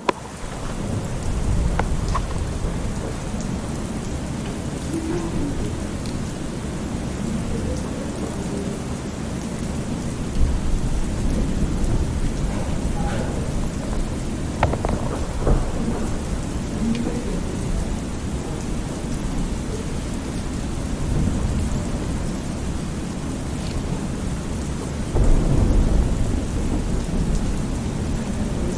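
Thunderstorm ambience: steady rain with low rolling thunder, which swells louder about ten seconds in and again near the end.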